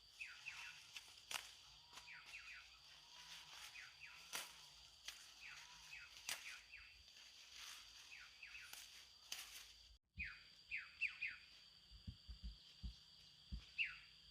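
Faint rural ambience: a small bird calling over and over in quick groups of short falling chirps, over a steady high insect drone. There are scattered light clicks, and a few low thumps in the last few seconds.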